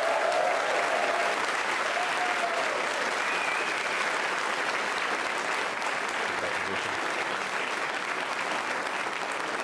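A crowd applauding and cheering steadily, with a few shouts in the first three seconds, at main engine cutoff and stage separation of a Falcon 9.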